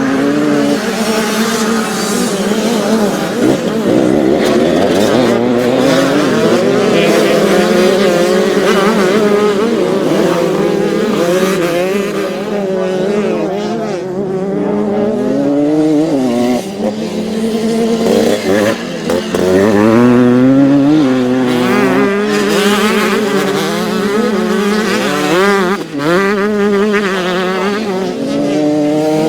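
Several youth motocross dirt bikes racing together, their engines revving up and down in overlapping rising and falling notes.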